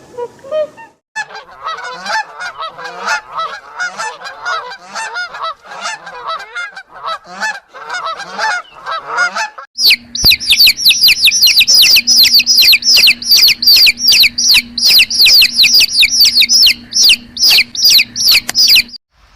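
Geese honking in a flock, many calls overlapping. About ten seconds in it cuts to a different clip: loud, rapid, high-pitched bird peeping, several calls a second.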